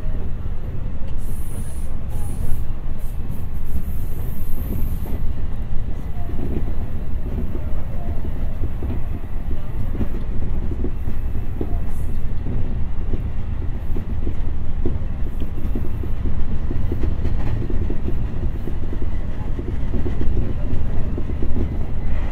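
Meitetsu electric train running at speed, heard from inside the car: a steady low rumble of wheels on rail with continual rattling.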